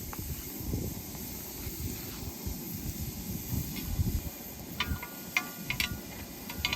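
Low rustling and handling noise, then a quick run of light clinks with a short ring from about five seconds in, as of small hard objects knocked together.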